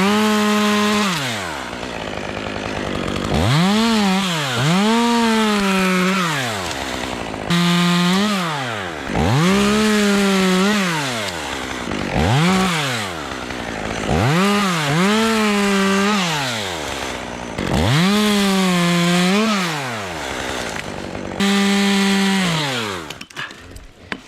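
Small two-stroke top-handle climbing chainsaw revving up to full throttle and dropping back to idle about seven times as it cuts cypress limbs, then it stops near the end.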